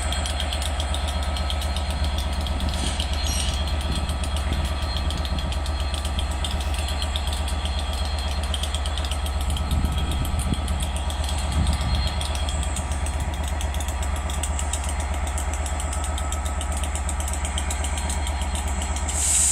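Diesel locomotive engine idling steadily, a low even hum that does not rise or fall, with a short hiss near the end.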